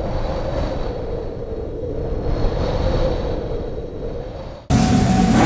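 Strong wind sound effect, a steady rushing rumble that swells and eases in gusts. It cuts off abruptly near the end and gives way at once to much louder car engine noise.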